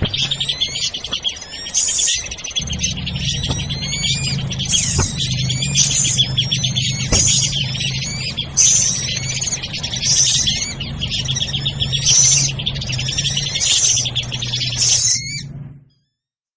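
Lure recording of agitated drongo calls: dense, overlapping chattering with rapid rising whistles and harsh bursts, over a steady low hum. It cuts off abruptly near the end.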